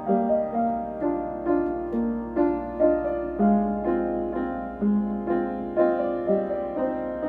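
Solo piano played at a moderate, even pace, notes and chords struck about twice a second and left to ring, over a faint low hum.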